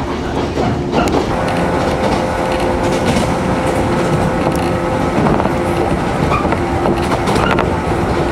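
Running noise of a 115-series electric train at speed, with steady tones held over the din of the wheels and a few sharp clacks over rail joints.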